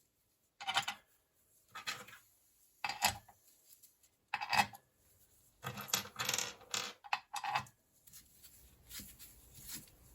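Bolts and metal engine covers clinking and knocking as they are handled and fitted to a motorcycle engine case: a string of separate sharp metallic knocks about a second apart, with a busy run of clinks past the middle.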